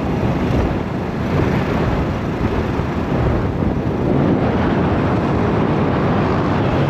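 Golf cart driving along a road: a steady rumble of the cart's running and tyres, mixed with wind on the microphone.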